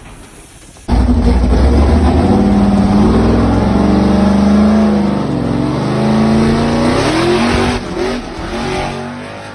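Car engine revving hard, starting suddenly and loud, its pitch rising and falling repeatedly.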